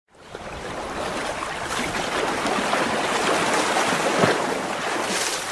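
Steady rushing water like surf, fading in over the first half second and holding level.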